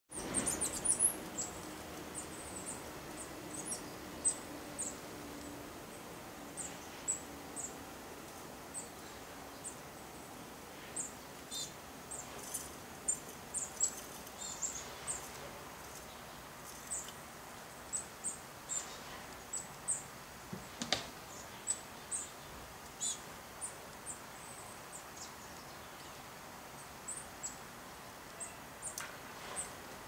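Small songbirds chirping: short, very high-pitched chirps repeated irregularly, one or two a second, over faint steady outdoor background noise.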